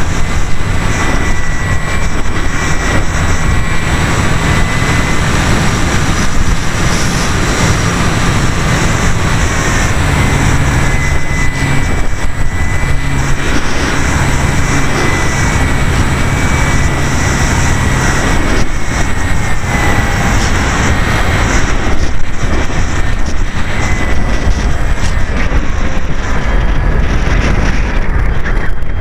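Electric motor and propeller of an E-flite Apprentice RC trainer plane in flight, heard from a camera on the plane: a steady whine that wavers a little in pitch, over heavy wind rush.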